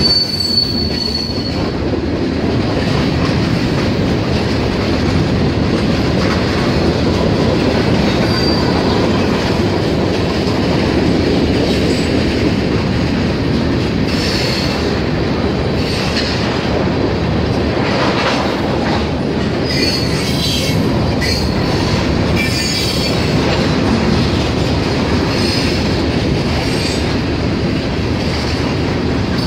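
Freight cars (covered hoppers, then tank cars) rolling past close by, with a steady rumble of wheels on the rails. Brief high wheel squeals come now and then.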